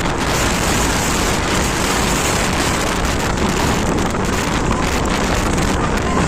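Hurricane-force wind buffeting the microphone: a loud, steady rush of wind noise.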